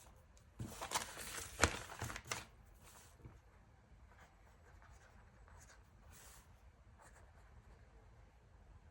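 Paper handling and pen work at a desk: a couple of seconds of rustling and scratching about half a second in, then faint occasional scratches.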